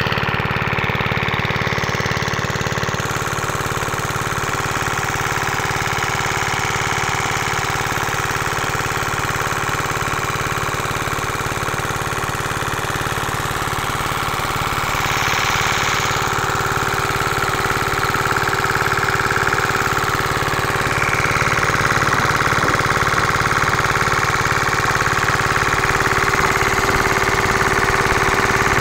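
Diesel engine of a water pump running steadily at an even speed, with a rapid, regular beat from its firing.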